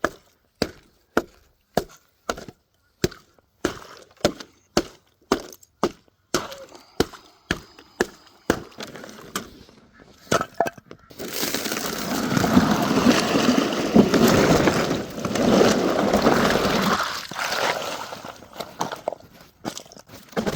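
Ice frozen nearly solid in a birds' water pool being struck over and over, sharp cracking blows about two a second for roughly ten seconds, then a longer stretch of rushing, clattering noise.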